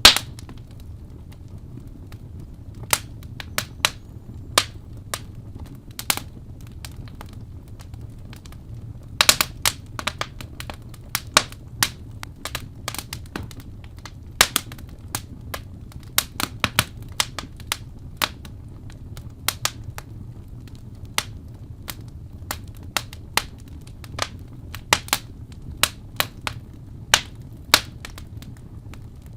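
Wood fire in a fireplace crackling, with many irregular sharp pops and snaps over a low steady rumble. A loud pop comes right at the start, and a cluster of louder snaps about nine seconds in.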